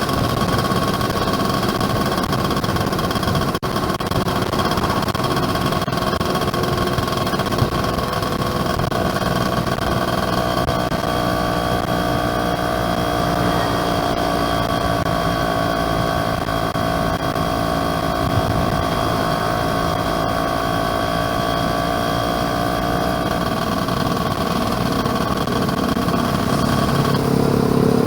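Yamaha F1ZR motorcycle's 110 cc two-stroke single-cylinder engine running steadily while riding, with wind noise underneath. The engine note changes about a second before the end.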